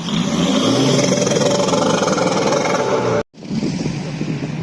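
A car engine revved and held high for about three seconds, then the sound cuts out for an instant and the engine carries on running more quietly.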